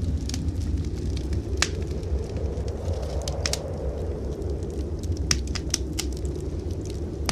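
Wood fire crackling in a fireplace, with a handful of sharp, separate pops over a steady low rumble.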